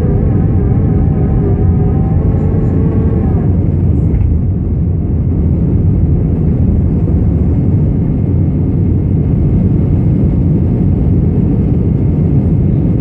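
Airbus A318 jet engines and airflow heard as a loud, steady roar during the climb after takeoff. A steady whine sits over the roar for about the first three seconds, then fades, leaving the roar alone.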